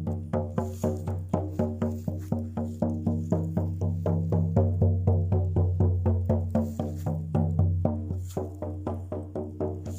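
Drum beaten in a steady, even rhythm, about four strokes a second, each stroke leaving a low ringing tone.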